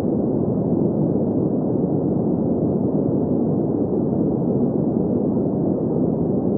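Green noise: a steady, even hiss centred in the low midrange, with little deep bass and nothing high, unchanging throughout.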